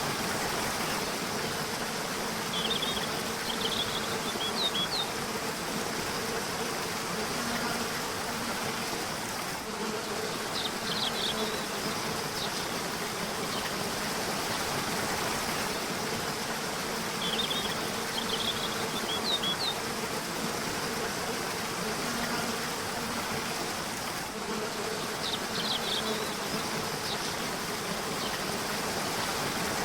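Steady rush of a river with short bursts of bird chirps recurring about every seven seconds over it, and a faint low hum underneath.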